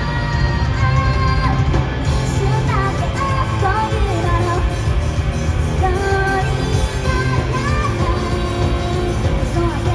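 Japanese rock band playing live: loud, continuous full-band music with a heavy low end and a melodic lead line bending in pitch over it.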